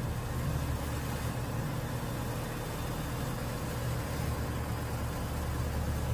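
Steady low engine rumble with a constant hiss over it.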